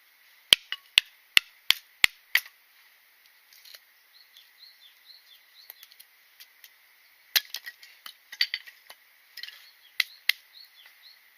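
A series of sharp snaps and cracks: several in quick succession in the first two seconds, a cluster a little past the middle and two more near the end, with faint short bird chirps in between.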